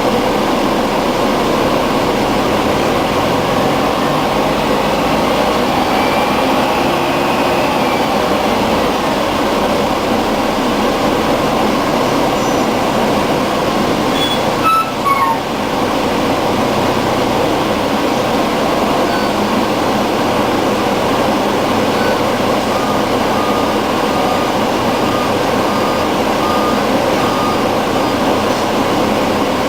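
Scania N113 city bus running, its diesel engine and drivetrain giving a steady, loud drone, with a short dip and change in pitch about halfway through. Near the end comes a row of short, evenly spaced beeps, about one a second.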